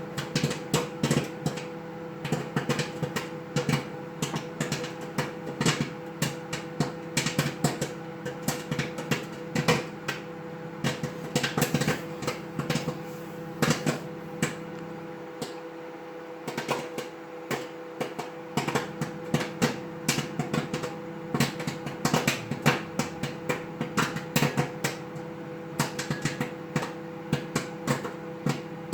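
Microwave popcorn popping in a running microwave oven: quick, irregular pops, several a second, over the oven's steady hum.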